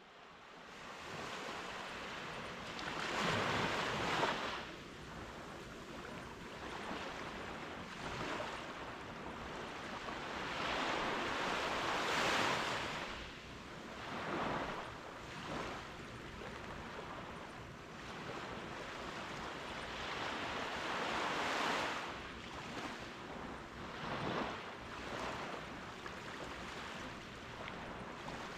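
Caribbean surf breaking on a sandy beach: a steady wash of water rising into larger crashing waves about every nine seconds, with smaller waves in between.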